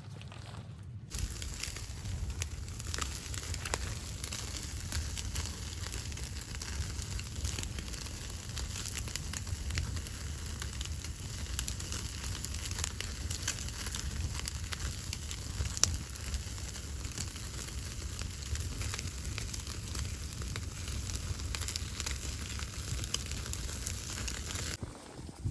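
Wood fire crackling: a steady hiss with many sharp pops, starting abruptly about a second in and cutting off just before the end.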